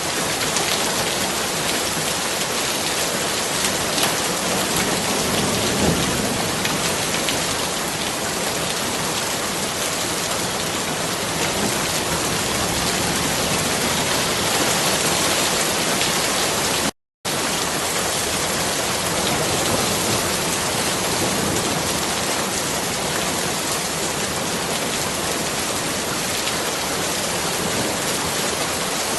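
Steady, even rain falling. About seventeen seconds in, the sound cuts out completely for a split second and then resumes.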